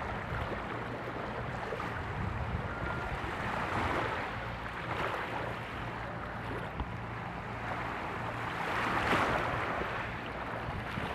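Motor ship running slowly as it comes in to a river landing stage: a low steady engine hum under washing water and wind noise, with the wash swelling about four seconds in and again near nine seconds.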